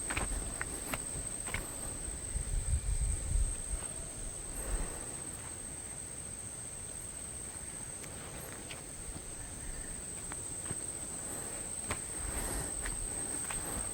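Steady high-pitched insect drone, one unbroken tone. A few faint clicks and a brief low rumble come in the first few seconds.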